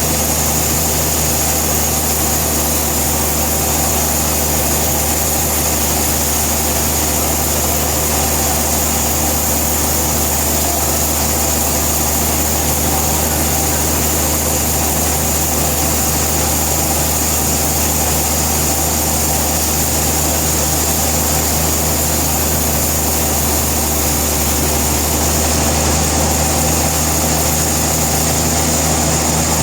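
Sawmill machinery running steadily: a constant engine or motor drone with a high, even hiss, unchanging throughout.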